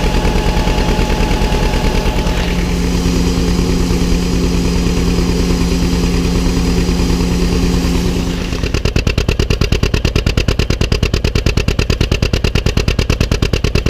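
Farm tractor engine running with a fast, even pulsing beat. A steady whine rides over it from a couple of seconds in until about two-thirds through, and then the beat turns sharper.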